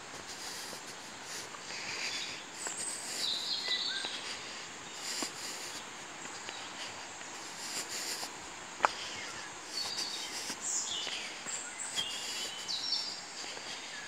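Woodland songbirds chirping and trilling in short scattered calls over the steady rush of a distant waterfall, with footsteps on stone steps and one sharp click about nine seconds in.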